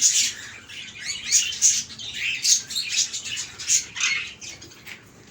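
Caged birds in an aviary giving a rapid series of short, shrill chirps and squawks, thinning out near the end.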